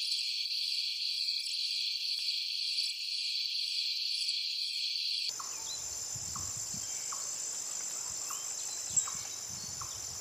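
Insects calling: a continuous high-pitched trill that switches abruptly about five seconds in to a different, thinner and higher steady call over faint background noise.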